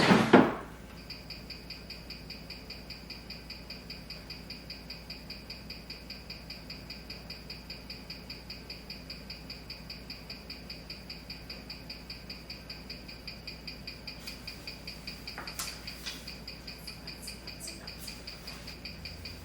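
Freshly serviced vintage Agissy mechanical watch ticking steadily, about five to six ticks a second, as it runs on a timegrapher. A brief handling clatter comes right at the start, and a few louder clicks about three-quarters of the way through.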